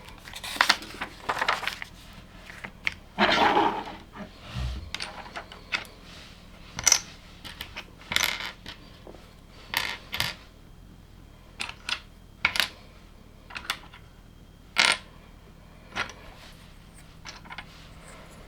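Small LEGO plastic pieces clicking and clattering on a hard surface as they are handled and pressed together: irregular sharp clicks, with a longer clatter a little over three seconds in.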